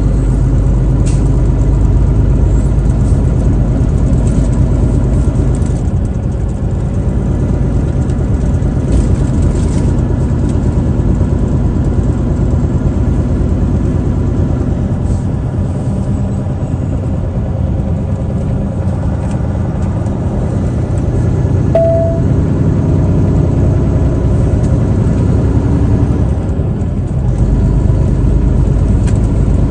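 Truck engine running with steady road noise while driving; a single short high tone sounds about two-thirds of the way through.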